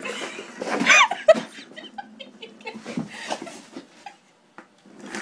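Laughter amid a dog's excited play with a catnip toy, with a high squeal about a second in and scattered scuffling clicks, dying away to near quiet shortly before the end.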